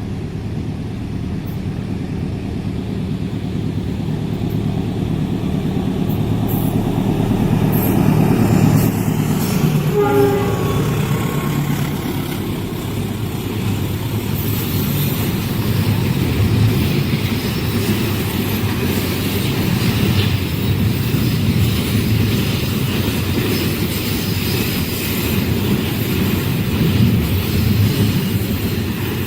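Diesel locomotive-hauled train approaching and passing at speed: an engine drone building for several seconds, a short horn blast about ten seconds in, then the carriages' wheels rattling over the rails.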